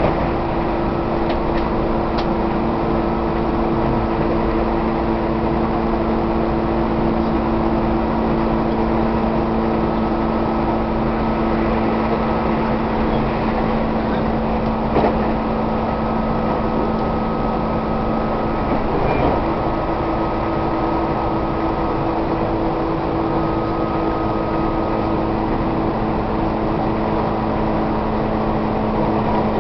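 Tobu 1800 series electric train heard from inside the passenger car while it runs at a steady speed: a constant rumble of wheels on rail with a steady motor hum. There is a single short knock about halfway through.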